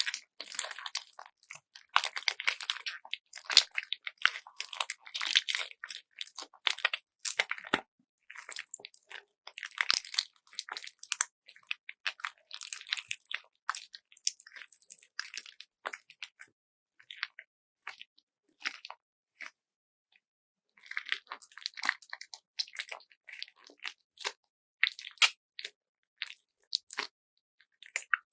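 Handmade squeeze bag filled with glitter bead slime being squeezed and kneaded by hand, giving irregular crunchy, crackling bursts with short pauses between squeezes.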